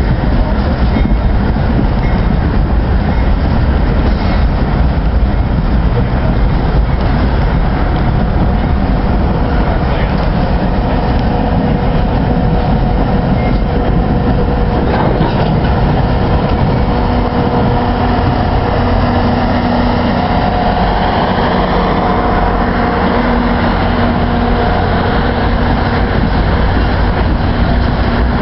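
Canadian Pacific Holiday Train arriving: a steady rumble of the train rolling along the rails, with a held tone joining in from about eight seconds in.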